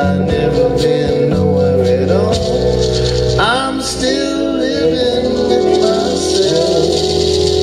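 Live band music with guitar and a sung, wordless vocal phrase, settling into a held chord in the second half as the song winds down.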